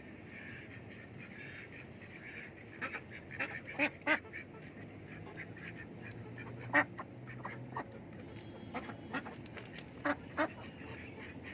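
Ducks quacking in short, scattered calls, starting about three seconds in, with the loudest one a little past the middle.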